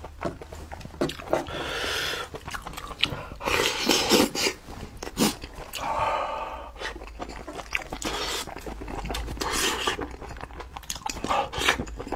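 Close-miked eating of spiced sheep's head meat: wet chewing and lip smacks with many sharp clicks, and several longer breathy noises of about a second each.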